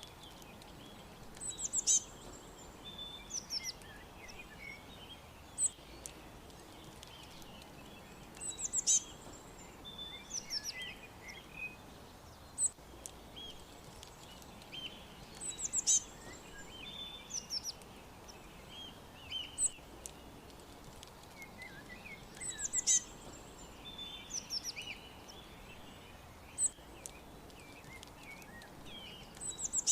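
Several small birds chirping and twittering over a soft background hiss, with quick high chirps and short falling notes. The same burst of calls comes back about every seven seconds, as from a looped recording.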